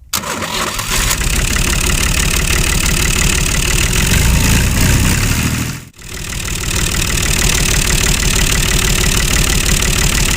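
A small engine running fast and steady, with a brief sharp dropout about six seconds in before it carries on.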